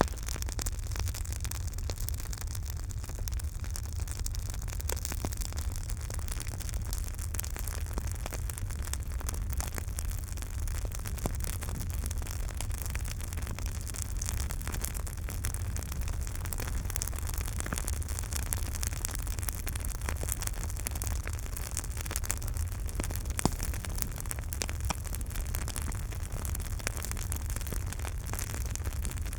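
Campfire burning: a steady low rumble and hiss with frequent small crackles and pops, and one louder pop about two-thirds of the way through.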